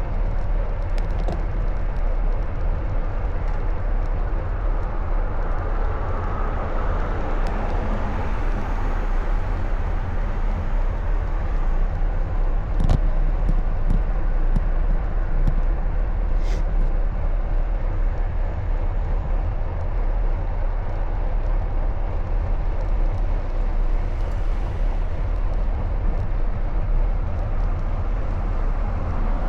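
Steady low rumble of wind and road noise on a camera riding along on a bicycle, with passing traffic mixed in and two short sharp clicks, about 13 and 16 seconds in.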